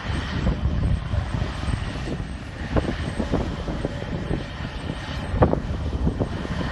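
Terex TR100 off-highway haul truck's diesel engine running with a steady low rumble, with a few short sharp knocks, the loudest about five seconds in.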